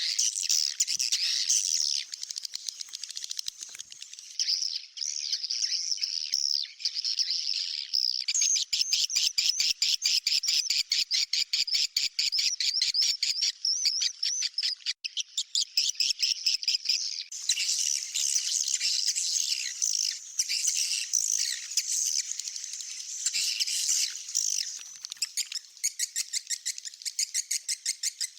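Edited recording of swiftlet calls used as a lure for swiftlet houses: dense high twittering chirps, with a fast clicking trill from about 8 to 15 seconds in, then thick chatter again.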